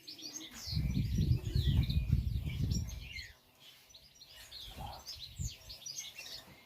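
Small birds chirping and twittering in quick, high calls throughout. A loud low rumbling noise runs from about a second in to about three seconds in.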